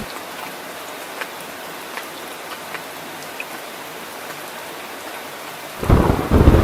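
Heavy rain falling steadily, an even hiss with scattered drop ticks. Near the end a loud, deep thunder rumble breaks in suddenly.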